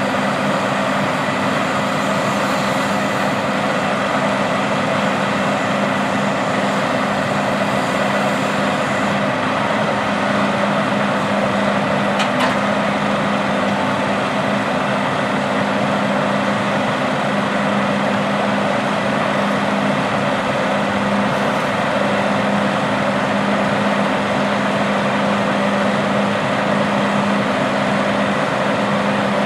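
Large diesel farm machinery running steadily at working speed, with an even engine drone under a broad mechanical rush.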